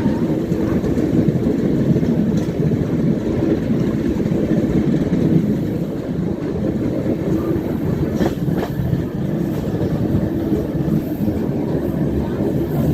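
Passenger train running along the track: a steady rumble of wheels and carriages, with two faint clicks about eight seconds in.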